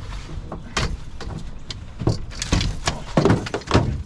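Wind buffeting the microphone with a steady low rumble, under a run of irregular knocks and clatter, the loudest about three seconds in.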